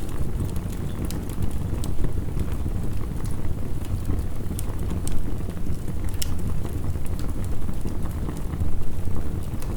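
Steady low rush of heavy rain mixed with a wood fire crackling, its sharp pops and snaps scattered irregularly throughout.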